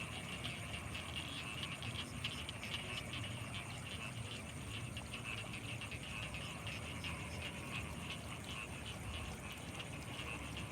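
Night chorus of frogs and insects from rice fields: a dense, steady chatter of quick calls with a thin, continuous high-pitched insect trill above it and a low rumble underneath.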